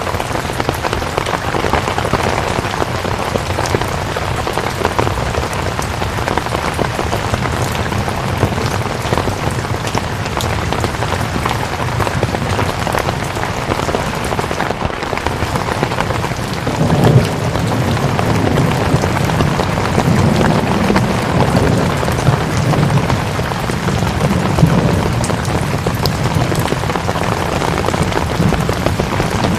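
Steady rain pattering on a surface. About halfway through, a low rumble joins it and carries on.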